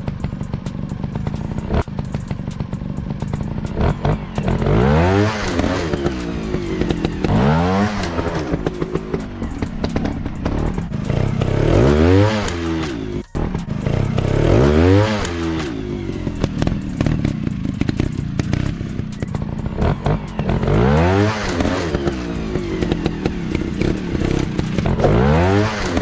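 Dirt bike's single-cylinder four-stroke engine revving up and dropping back again and again, about six rises a few seconds apart, over a steady running note.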